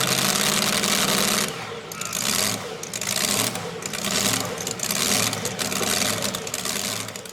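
Modified two-wheel-drive pulling truck's racing engine running loud at high revs, surging and easing in repeated swells about once a second.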